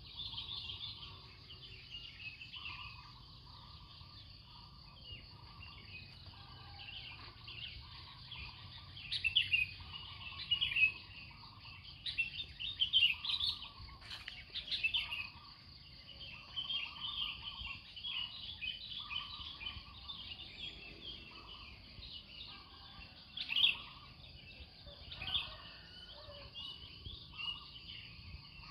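Many birds chirping and twittering in a dawn chorus, with louder bursts of calls now and then over a steady high-pitched hum.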